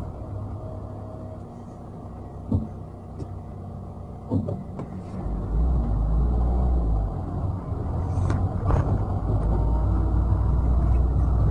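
Renault Sandero being driven: steady engine and road rumble with a couple of light knocks, the engine picking up speed in the second half.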